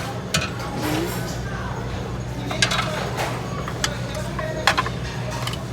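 Busy buffet restaurant room sound: scattered clinks of serving utensils and dishes over a steady low hum and faint background chatter.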